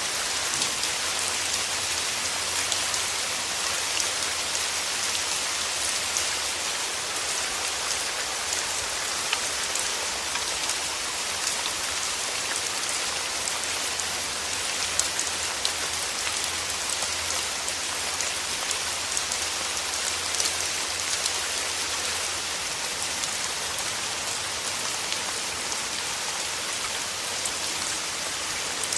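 Steady rain falling, a dense hiss of many small drop patters with no let-up.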